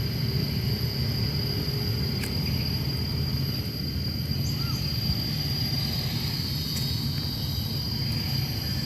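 Outdoor ambience: a steady low rumble under a steady high-pitched drone, with a few faint short chirps about halfway through.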